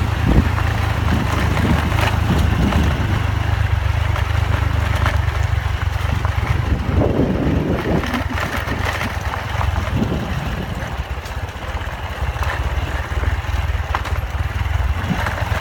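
Motorcycle engine running steadily while riding, under a continuous rush of wind and road noise.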